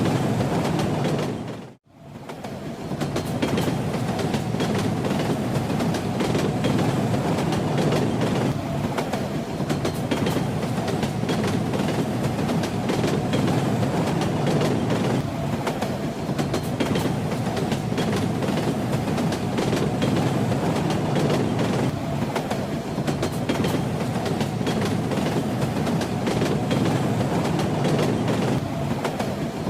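Railway carriage rumbling along at speed, with its wheels clattering over the rails. About two seconds in, the sound fades out briefly and comes back in.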